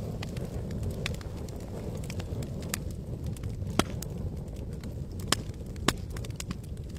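Wood campfire crackling: scattered sharp pops and snaps over a steady low rumble, with three louder pops in the second half.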